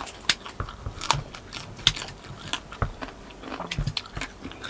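Kitchen scissors snipping through crispy deep-fried pork skin (lechon kawali), an irregular run of sharp crackling clicks and crunches.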